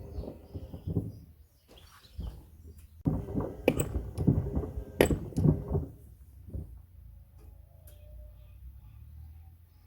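Pieces of wood knocking and clattering around inside a tumbling Hoover washing machine drum, with a steady low motor hum. The knocks come in an irregular cluster a few seconds in, then thin out to scattered clicks and faint squeaks.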